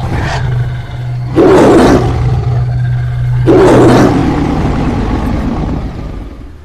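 A tiger roaring: a short growl at the start, then two loud roars about two seconds apart, each trailing off, over a low steady hum that stops about four seconds in.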